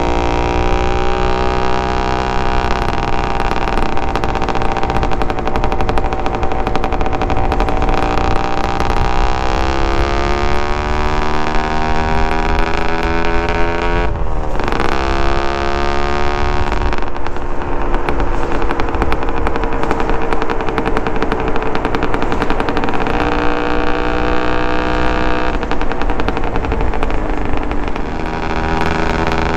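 Suzuki TSR 125's single-cylinder two-stroke engine through a DEP exhaust, ridden: the engine pitch climbs steadily, drops sharply about halfway through as the throttle comes off or a gear changes, then pulls and varies again.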